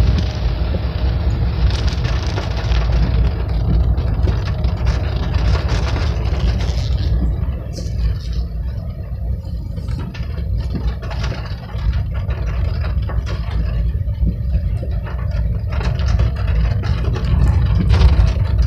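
Steady low rumble of a running vehicle engine, with the hiss of rain that thins out about seven seconds in, leaving scattered ticks of drops.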